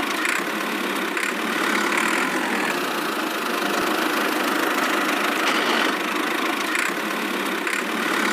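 Small motor running steadily, an even whirring hum with a few faint ticks through it.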